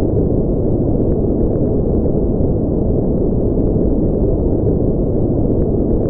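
Synthesized low, deep noise for sleep, steady and unchanging: a dark rumbling hiss with its energy in the low range and almost nothing in the highs, like brown noise rather than bright white noise.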